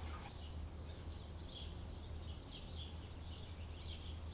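Songbird chirping repeatedly, short high chirps that each drop a little in pitch, about two a second, over a low steady rumble.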